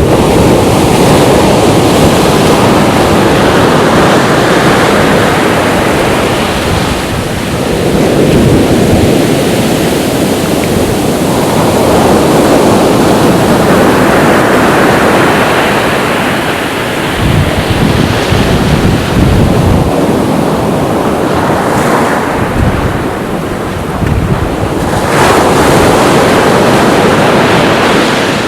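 Sea waves breaking on a beach, the surf swelling and easing every several seconds, with strong wind buffeting the microphone in a low rumble.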